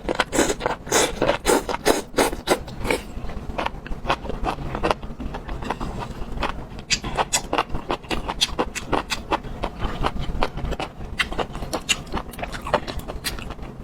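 Close-up chewing and crunching of food: a rapid, irregular run of crisp crunches and wet mouth clicks.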